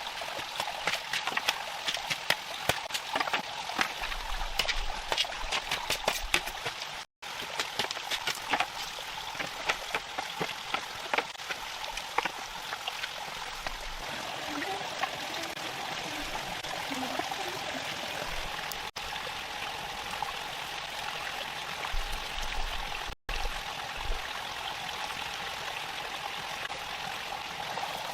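A stream running, a steady rush of water, with many sharp clicks and taps over it during the first dozen seconds.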